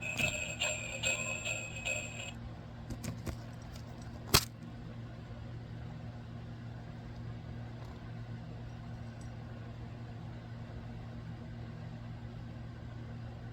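Sleigh-bell jingle played from a sound book's small speaker for about two seconds, followed by a few light clicks and one sharp click about four seconds in, then a steady low hum.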